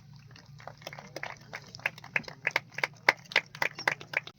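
A quick, slightly irregular run of sharp taps, about three or four a second, growing louder about a second in.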